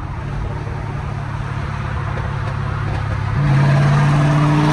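2011 Camaro SS 6.2-litre V8 running through a catless exhaust with an H-pipe and Borla ATAK mufflers, heard from inside the car at a steady cruise drone. About three and a half seconds in, the pitch steps up and the drone gets louder, then holds.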